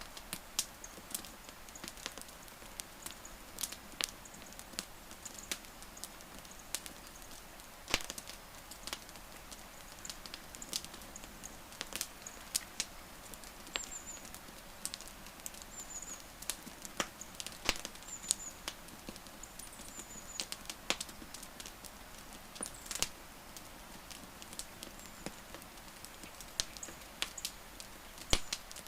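Wood fire crackling and popping in irregular sharp snaps over a low hiss, a few pops louder than the rest. Short high chirps come now and then through the middle.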